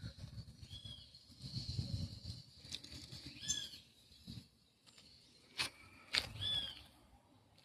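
A bird calling with short arched chirps, one about every three seconds, over a faint low rumble, with two sharp clicks a little past the middle.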